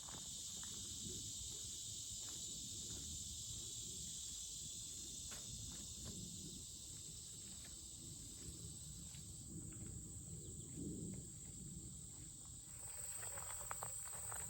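A steady high chorus of insects, with soft footsteps and rustling on the trail.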